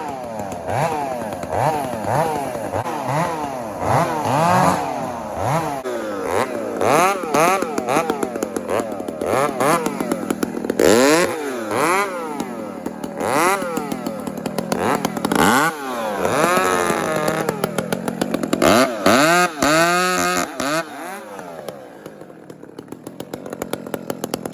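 Two-stroke chainsaws limbing felled trees, their engines revving up and dropping back again and again with each cut. About three-quarters of the way through they fall to a quieter, steady idle.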